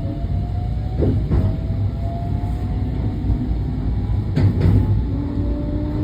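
Train running along the line, heard from inside: a steady low rumble with a faint whine slowly rising in pitch as it gathers speed. The wheels knock over rail joints in two quick pairs, about a second in and again about four and a half seconds in.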